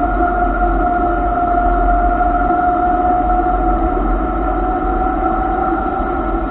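Motorcycle engine running steadily while riding at speed, heard muffled through the camera mount as an even hum with a steady whining tone and a low rumble underneath.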